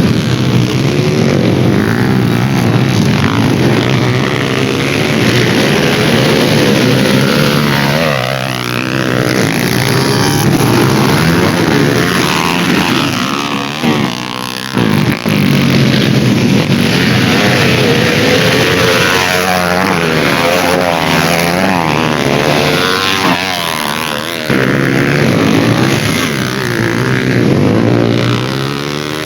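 Several dirt bike engines revving hard at once, their pitch repeatedly rising and falling as they accelerate and shift. The sound briefly dips about 14 and 24 seconds in.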